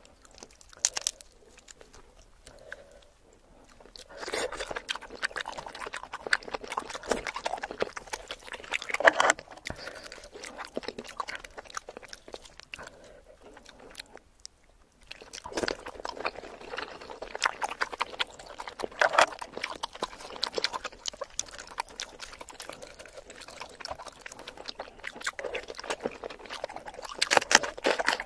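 Close-up chewing and wet, sticky mouth sounds of eating shrimp in a thick sauce, in two long stretches with a pause of several seconds about midway.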